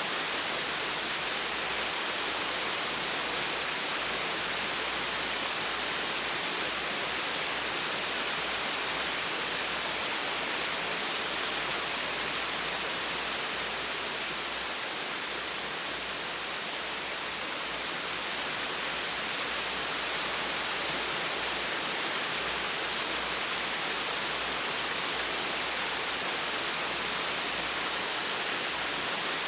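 Small waterfall splashing steadily, an even rushing hiss of falling water.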